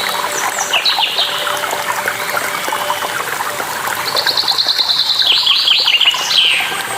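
Songbirds chirping over a steady rush of flowing water. About four seconds in, one bird gives a fast trill of evenly repeated notes lasting nearly two seconds.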